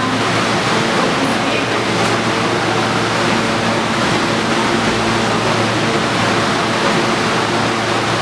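R160 subway train running in the station: a loud, steady rumble of wheels on rail with a low, even hum under it.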